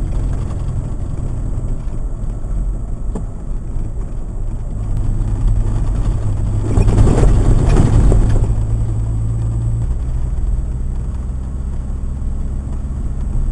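A vehicle engine drones steadily with road noise, heard from inside the cab while driving. A rush of noise swells and fades about seven seconds in.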